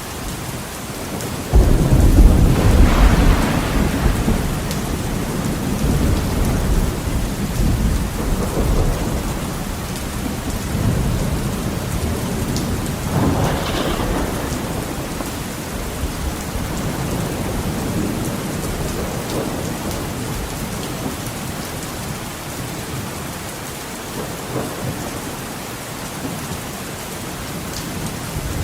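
Heavy rain hissing steadily on a window, with a loud thunderclap breaking about a second and a half in and rolling on for several seconds, then a second, weaker crack of thunder about halfway through that rumbles off.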